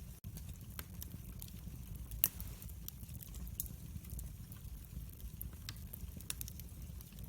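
Wood fire in a fireplace crackling, with scattered sharp pops over a steady low rumble of flames. One pop about two seconds in is louder than the rest.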